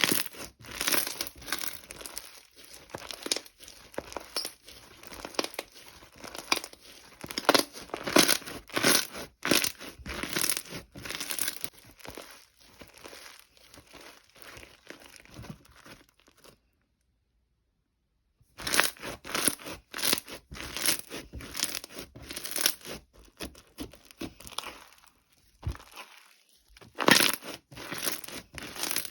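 Irregular crinkling and tearing of a thin material such as paper, plastic or tape being handled and pulled, in quick uneven bursts. A little past the middle the sound cuts out completely for about two seconds, then resumes.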